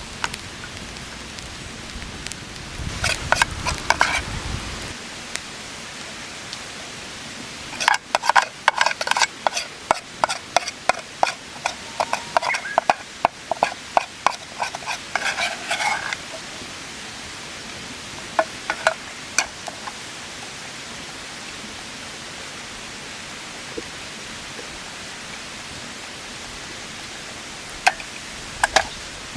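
A metal utensil scraping and clinking against metal camp cookware in short bursts, with the longest run in the middle and a few brief ones either side, over a steady hiss.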